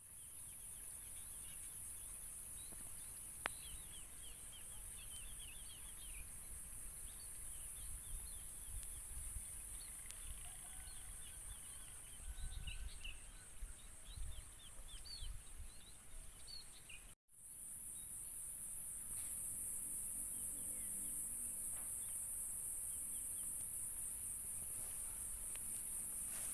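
A steady, high-pitched, pulsing insect chorus, with small birds chirping over it and a single sharp click about three and a half seconds in.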